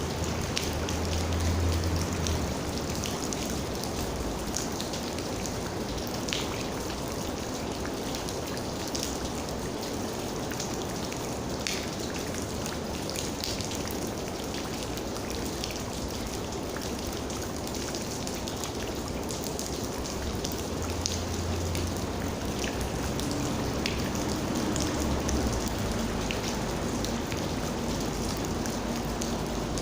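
Steady rain falling, with many separate drops ticking on a surface, and a few brief low rumbles.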